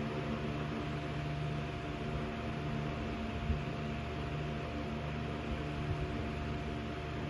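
Antique Dayton nickel-plated 12-inch table fan, Type 367, running steadily: a motor hum under an even rush of air.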